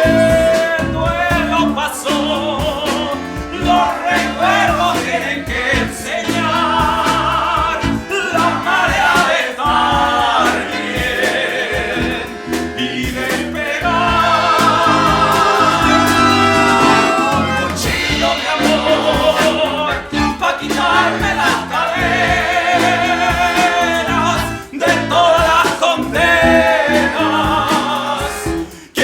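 Live band playing a song: singing with backing voices over drums, bass and melodic instruments, going on without a break.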